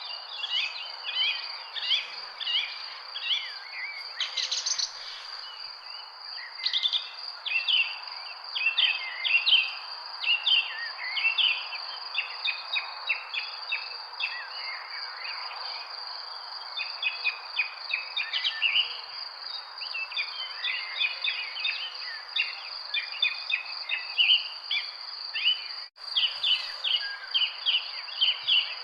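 Many small birds chirping and calling in quick, overlapping short notes, over a steady high-pitched insect drone of crickets and a soft background hiss, with a brief break in the sound near the end.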